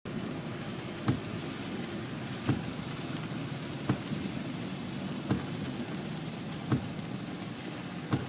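Steady rain noise with a short, sharp knock about every one and a half seconds, six times in all, evenly spaced like a machine's stroke.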